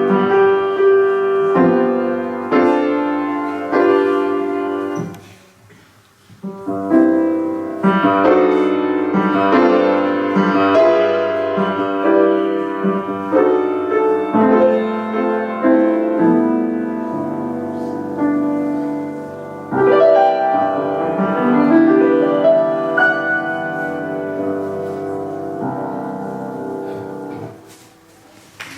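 A piano piece played, a series of notes and chords with a short break about six seconds in. The final chord dies away near the end.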